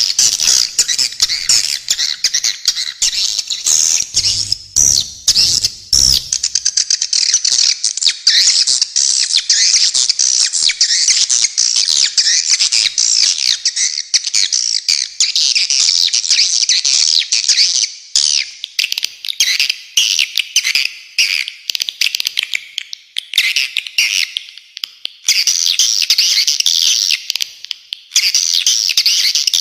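A dense chorus of swiftlets twittering: rapid, high chirps overlapping without pause. There are a few low thumps about four to six seconds in.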